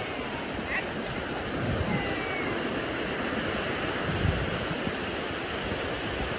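Sea surf washing onto a sandy beach: a steady hiss of breaking waves, with two low rumbles swelling up about two and four seconds in.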